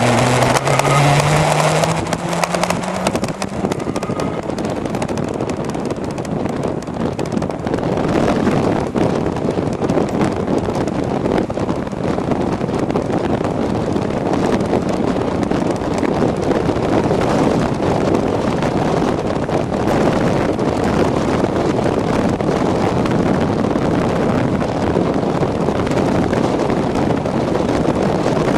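Wind rushing over the microphone and road noise from a moving e-bike. A whine rises in pitch over the first few seconds and fades, and there are scattered small knocks throughout.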